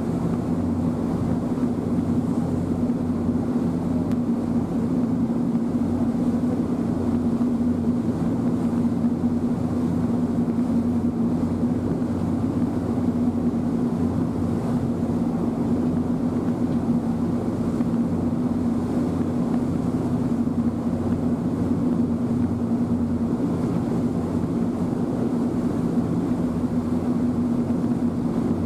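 Ferry engine running steadily under way, a constant low hum over an even rush of noise, heard on board.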